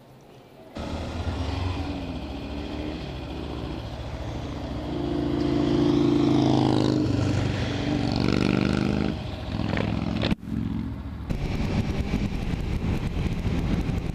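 Kawasaki Ninja 300 parallel-twin motorcycle engine pulling away and accelerating, its pitch rising and falling through the gears, then running steadily.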